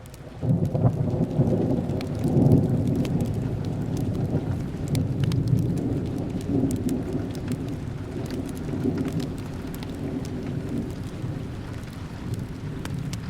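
Steady rain with a long, low roll of thunder that swells in within the first second, peaks a couple of seconds in and slowly fades, with many scattered sharp ticks over the hiss.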